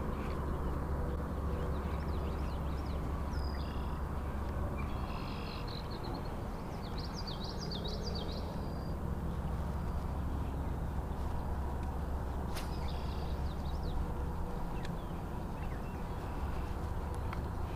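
Birds chirping and calling in quick runs of high notes, in two spells: a few seconds in and again about two-thirds through. Under them runs a steady low hum, with one sharp click partway through.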